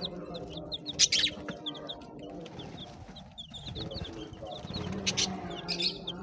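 Parrots chirping and chattering in quick short calls, with loud harsh squawks about a second in and again around five seconds.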